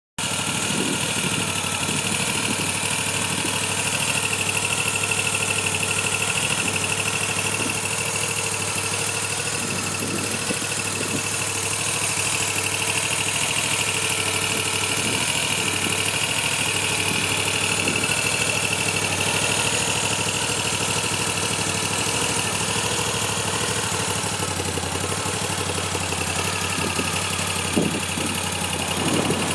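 Moto Guzzi V7 III Stone's air-cooled transverse V-twin idling steadily.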